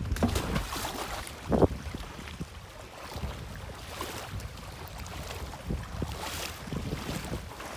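Water sloshing and wind buffeting the microphone as a floating boat lift is pushed through the water, with a single sharp knock about one and a half seconds in.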